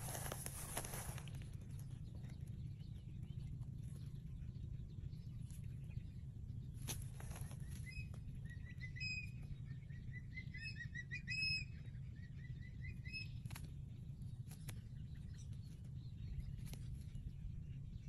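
A bird calling in a run of short, high chirps, loudest about eleven and a half seconds in, over a steady low rumble. There is a brief rush of noise at the start and a few faint clicks.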